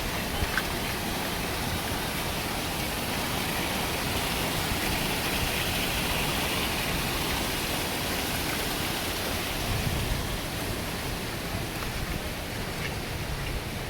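Heavy rain falling with a steady hiss, and wind gusting as a low rumble, strongest at the start and about ten seconds in.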